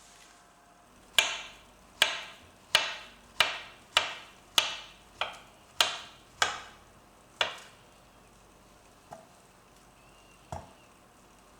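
Kitchen knife chopping on a cutting board: about ten sharp, evenly paced strikes, then two lighter knocks a few seconds later.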